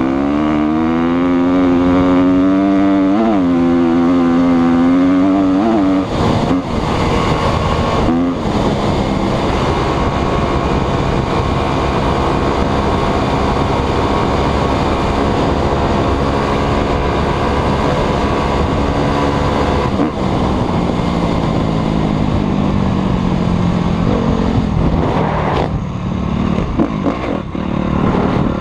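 Motocross bike engine running hard, its pitch rising and falling, with a few sudden breaks where the revs drop and climb again.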